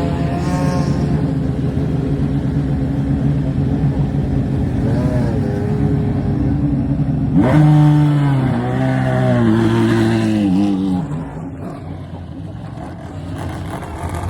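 Race car engine running at idle with a short throttle blip, then revving sharply about halfway through, its pitch falling back in steps before the sound drops away.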